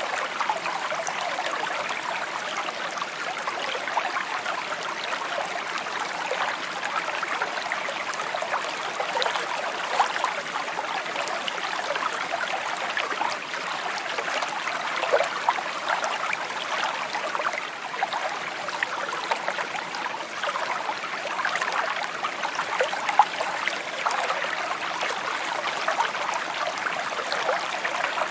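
A small brook trickling steadily, with many little gurgling, bubbling notes over an even rush of water.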